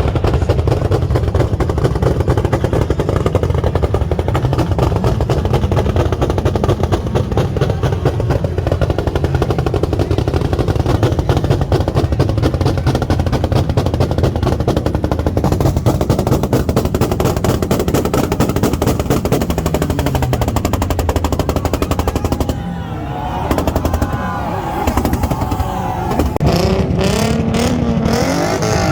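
Loud car engine running close by, its exhaust giving a fast, rattling beat. Wavering tones join in over the last few seconds.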